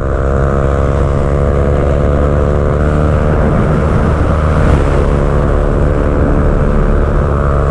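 Motorcycle engine running hard at a steady pitch, held at constant revs for several seconds.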